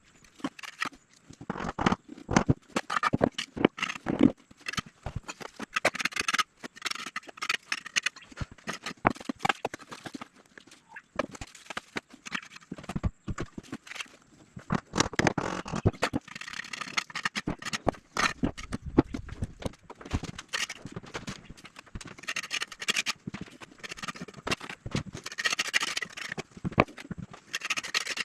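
Irregular knocks and taps, many in quick succession, with stretches of scraping now and then.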